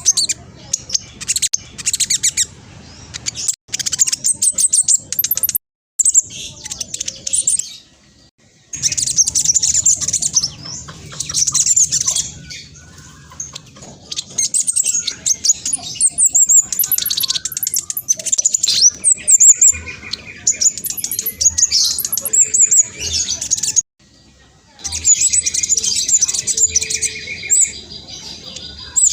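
Black sunbird singing a fast, high-pitched chattering song: bursts of rapid trills of a second or a few seconds each, broken by several short silent gaps.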